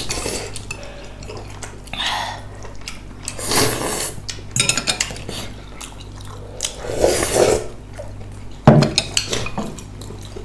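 Spoons and chopsticks clinking and scraping against bowls and dishes during a meal, with irregular eating noises in between. A sharp knock about three-quarters of the way through is the loudest sound.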